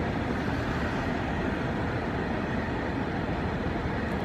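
Steady road and wind noise of a moving car heard with its window rolled down.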